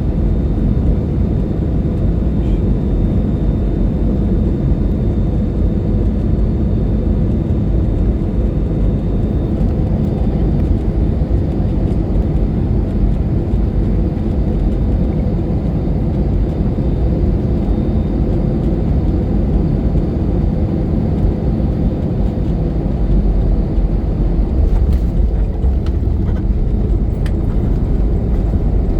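Steady Airbus A320 cabin noise in flight: a loud, even low rumble of engines and airflow with a faint steady whine.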